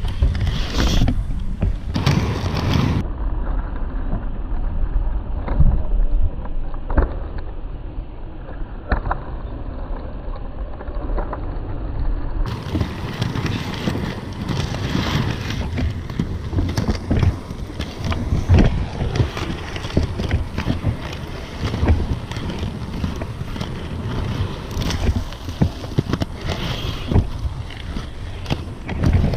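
Wind buffeting the microphone over the rumble of large inline skate wheels rolling on pavement, with frequent short knocks and clicks.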